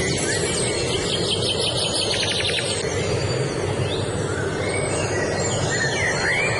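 Songbirds singing: a fast trill starting about a second in and lasting nearly two seconds, then short rising-and-falling chirps near the end. Under them runs a steady low rushing noise.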